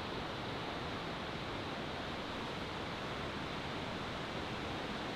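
Steady rush of falling water from waterfalls, even and unchanging.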